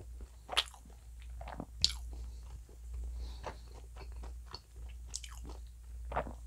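Close-miked chewing of a mouthful of Domino's Hot Chicken pizza on original crust, mouth closed: wet smacks and soft crunches of crust, with a few sharper clicks now and then.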